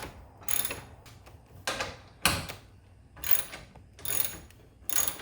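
Screws being driven by hand through stacked metal brackets on a garage door: a run of short rasping strokes, about one a second, each a turn of the tool.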